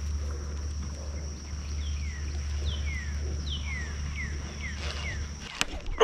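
A bird calling a quick run of short down-slurred whistles, about three a second, starting about two seconds in, over a steady low hum and a thin high whine that stops near the end.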